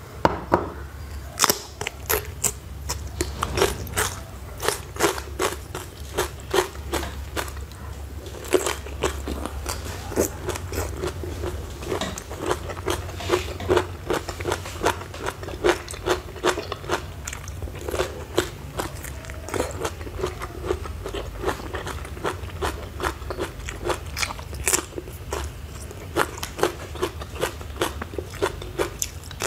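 Close-miked biting and chewing of crisp hand-peeled bamboo shoots smothered in chopped chili, with sharp wet crunches a few times a second.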